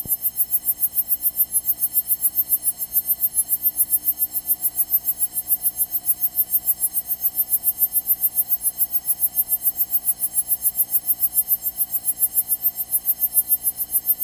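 Cessna 172's piston engine and propeller drone in cruise, heard through the cockpit intercom, with a fast, even pulsing.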